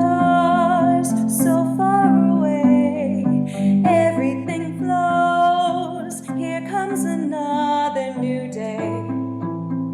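A soprano voice singing a legato melody line over a backing track of plucked, arpeggiated accompaniment with a steady bass.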